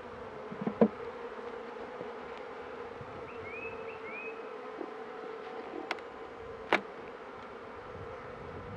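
Honeybee colony buzzing with a steady hum from the open hive. Two sharp knocks, one about a second in and a louder one near seven seconds.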